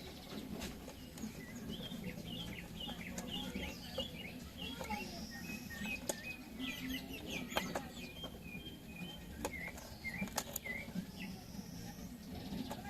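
A bird chirping in quick series of short notes, with a few sharp clicks and a steady low hum underneath.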